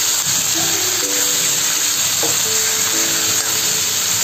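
Background music of long held notes over a steady sizzle of chicken pieces frying in hot oil in a steel kadai.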